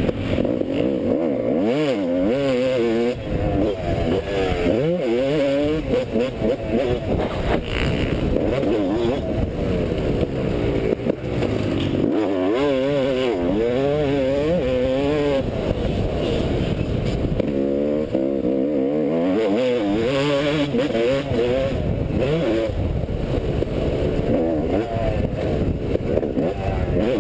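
2010 Yamaha YZ250's single-cylinder two-stroke engine being ridden on a motocross track, its pitch repeatedly climbing and dropping as the throttle opens and closes and the gears change.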